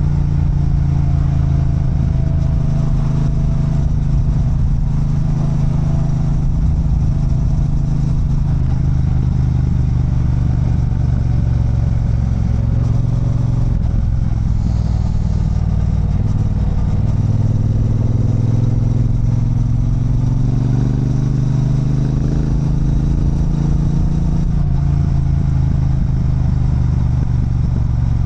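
Triumph Bonneville Bobber's 1200 cc parallel-twin engine running under light throttle. Its pitch sags and rises again as road speed changes on the descent.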